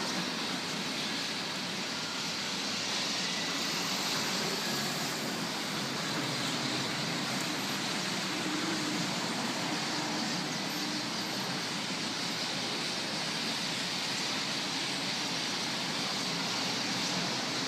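Steady hum of road traffic, an even wash of city noise with no single event standing out.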